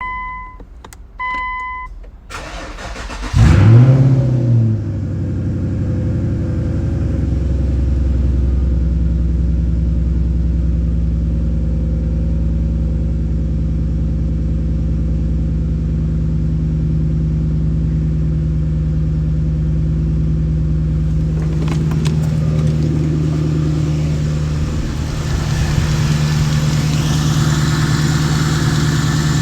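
Two short electronic beeps, then a Nissan Fuga's VK45 4.5-litre V8 cranks briefly, fires about three and a half seconds in with a quick rev flare, and settles into a steady idle.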